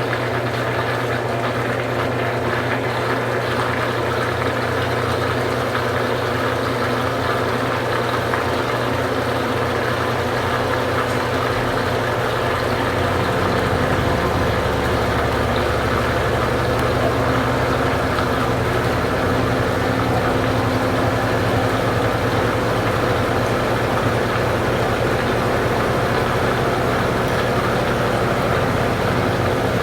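Consul Supercargo 8 kg (CWL08C) washing machine running steadily with a mechanical hum. A deeper, slightly louder hum comes in about halfway through as the motor takes on more speed, as in the drain-and-spin stage near the end of a wash.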